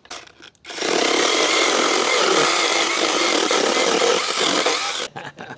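Motorised saw cutting through firewood. It runs steadily for about four seconds, starting about a second in and stopping near the end.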